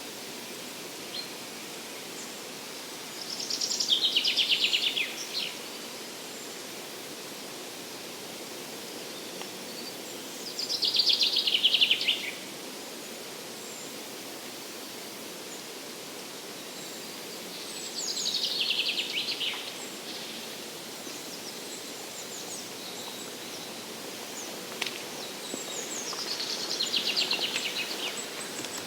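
A songbird singing four separate phrases, each a quick trill of rapid notes falling in pitch over about two seconds, repeated roughly every seven seconds. Beneath them runs a steady, even forest hiss.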